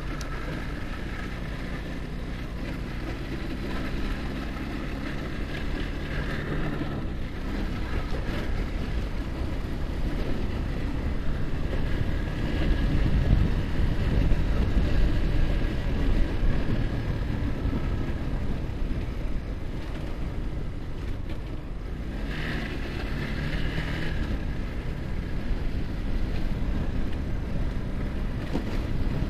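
Yamaha R15's single-cylinder engine running at riding speed, with wind rushing over the microphone; the rush grows loudest about halfway through.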